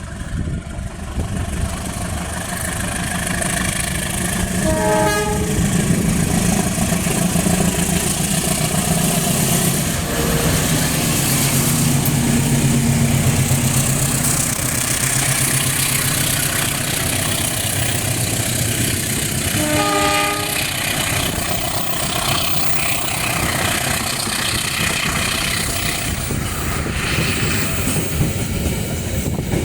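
The Bogowonto passenger train running along the track, its diesel locomotive rumbling and the wheels clattering over the rails. The horn gives a short blast about five seconds in and another about twenty seconds in.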